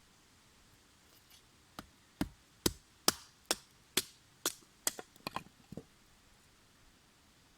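A series of sharp knocks, about two a second, ending in a quick cluster of closer knocks.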